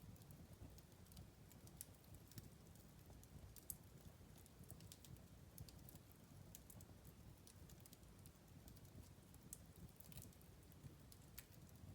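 Faint crackling of a wood fire in a fireplace: irregular small snaps and pops over a low steady rumble.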